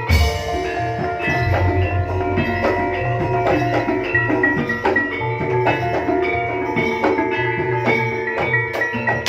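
Live Javanese jaranan music: an ensemble of tuned metal gamelan percussion and drums playing a dense, steady rhythm. A heavy deep stroke sounds right at the start.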